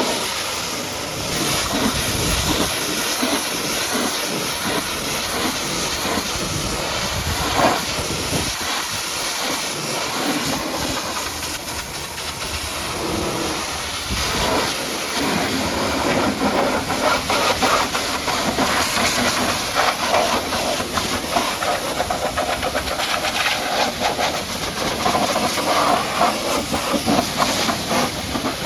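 High-pressure washer jet spraying water against a truck, a steady hiss with a spattering crackle that turns rougher and louder about halfway through.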